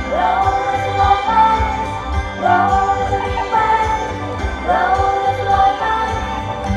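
A pop ballad sung live by a group of female idol singers over a backing track, the voices swooping up into long held notes in phrases about two seconds long.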